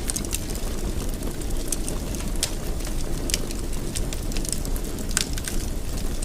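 Wood fire burning in a fireplace: irregular sharp crackles and pops over a steady low rumble, with the loudest pops about two and a half, three and a half and five seconds in.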